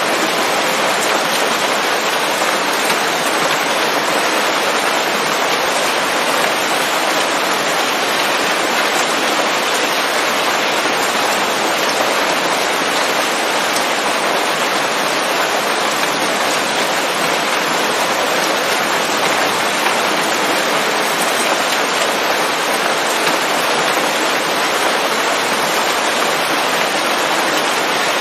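Steady rain falling on leafy forest foliage, an even hiss that stays constant without letting up.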